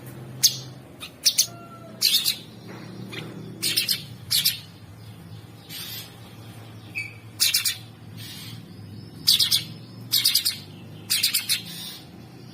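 Cucak sungkok songbird singing short, rough, chattering phrases about once a second, a dozen or so in all, over a steady low hum.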